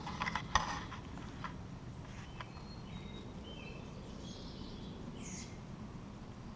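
Small birds chirping outdoors in short, high, thin notes, with one rougher call a little past halfway. A few sharp clicks or claps sound in the first half second.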